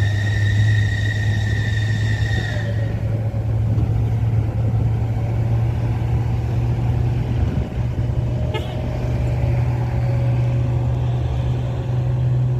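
Truck engine running with a steady low drone. A steady high tone sounds over it for the first few seconds and stops about three seconds in.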